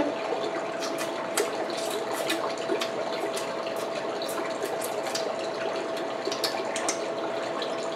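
A steady rushing hiss with a faint constant hum, broken by frequent small, irregular clicks and smacks of someone eating crab legs.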